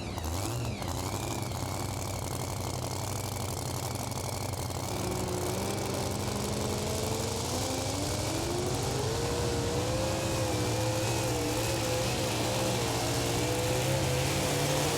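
Super modified 2wd pulling truck's engine running, rising in pitch about a third of the way in and then holding at a higher, wavering pitch.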